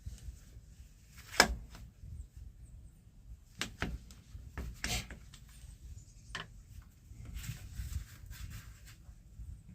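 A few sharp clicks and knocks from hand tools and metal parts being handled and tightened, the loudest about a second and a half in.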